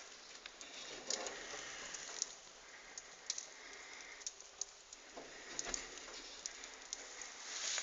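Wood fire crackling in a fireplace: irregular sharp snaps and pops over a soft hiss.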